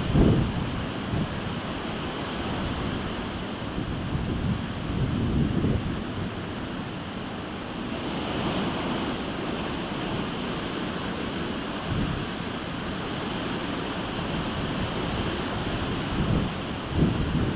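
Typhoon wind blowing steadily, with gusts buffeting the microphone as low rumbles near the start, about five seconds in, about twelve seconds in and near the end.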